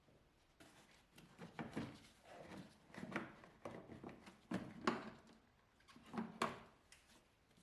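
Handling noises: four short bursts of clicks and rubbing, as of parts or tools being moved.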